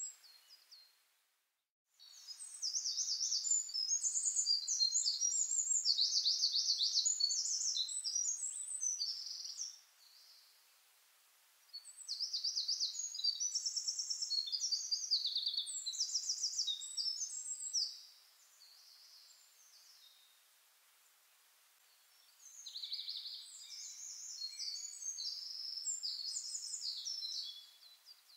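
A songbird singing long bouts of rapid, high-pitched trills and chirps, three bouts with a few seconds' pause between them, over a faint hiss.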